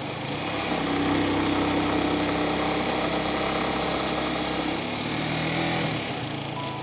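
Motorcycle engine running steadily, its note dropping lower about five seconds in.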